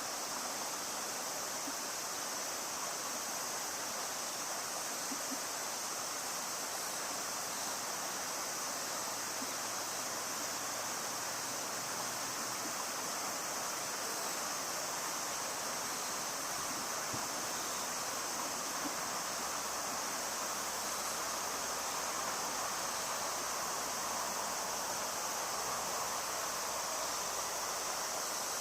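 Steady rushing of river water, with an unbroken high-pitched hiss above it.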